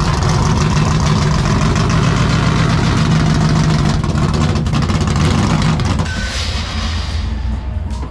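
Car engine running loud and hard at steady revs. It eases off slightly about six seconds in.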